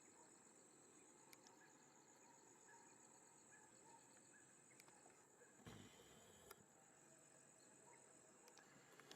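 Near silence: faint outdoor ambience with a steady high-pitched insect drone, like crickets, and a few soft clicks. There is a brief low thump a little before six seconds in.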